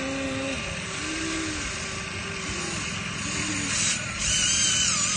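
Small electric motors and plastic gearboxes of radio-controlled construction models whining and rattling. The pitch rises and falls as the motors start and stop, and a louder, higher whine wavers up and down starting about four seconds in.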